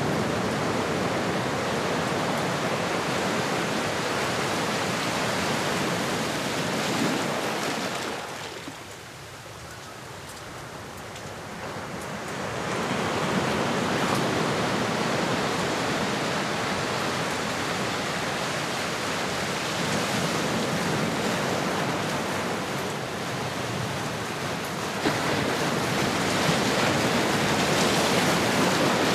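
Ocean waves washing on a shore in a steady rush, easing to a lull about nine seconds in, then building back, with another wave surging up near the end.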